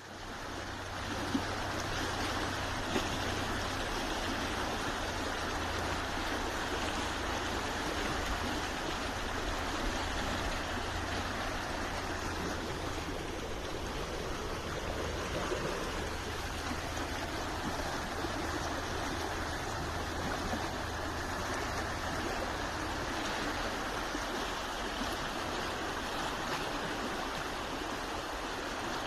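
Running water rushing steadily, like a stream or small waterfall, with a steady low rumble beneath it.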